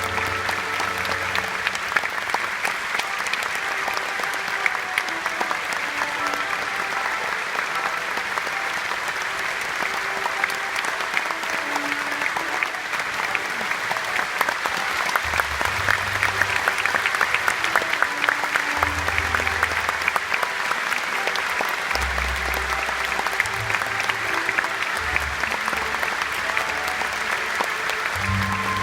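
Audience applause over orchestral music, with held low bass notes coming and going beneath the clapping.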